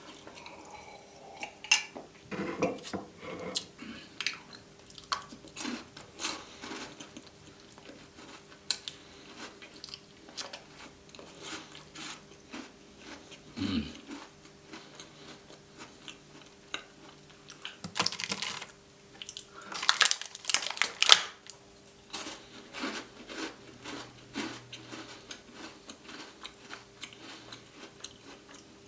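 Close-up chewing and crunching of Tim Tam chocolate-coated biscuits: many small crunches, with louder bouts of biting about eighteen and twenty seconds in. A faint steady hum runs underneath.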